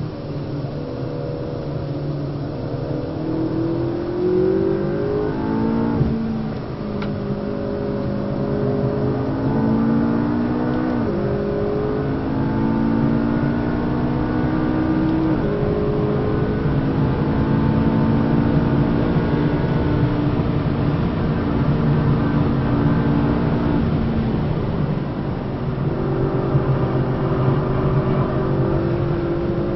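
McLaren 650S's twin-turbo V8 under hard acceleration, heard from inside the cabin: its pitch climbs through the gears with three upshifts, about six, eleven and fifteen seconds in, then holds nearly steady at high speed with a short lift around twenty-four seconds.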